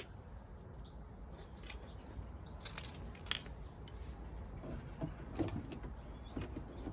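Scattered faint clicks and light metallic clinks as a car door lock mechanism is handled and fitted inside the door, over a steady low background rumble.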